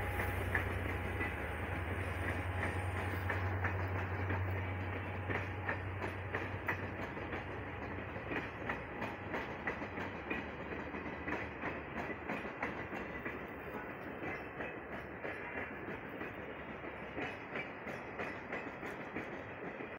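Diesel-hauled passenger train pulling away. The locomotive's low engine drone fades over the first several seconds, leaving the carriage wheels clacking over the rail joints, the clacks growing fainter as the train recedes.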